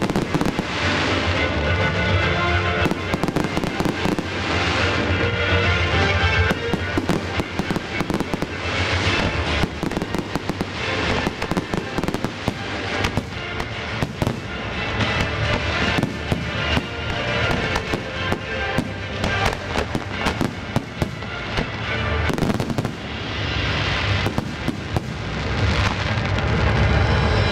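Fireworks display, with aerial shells bursting in a rapid, dense run of bangs and crackles, over music played along with the show.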